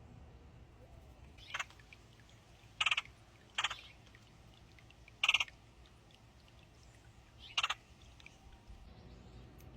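A bird at the feeder gives five short, harsh calls, spaced a second or two apart.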